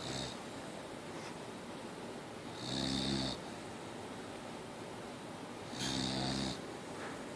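Boxer dog snoring: two snores about three seconds apart, each lasting under a second.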